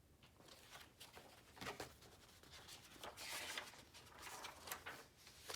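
Faint rustling of a paper book page being turned, with soft handling clicks; the rustle is strongest about three seconds in.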